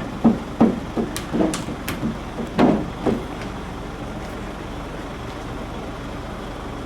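A vehicle engine running steadily with a low hum. Over it, a run of short knocks and clatters in the first three seconds.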